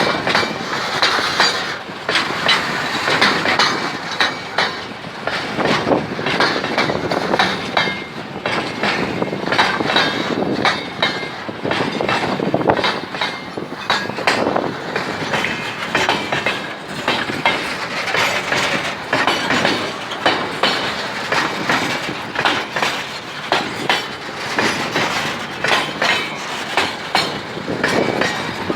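Freight train wagons rolling past, their wheels clacking over the rail joints in a steady repeating rhythm.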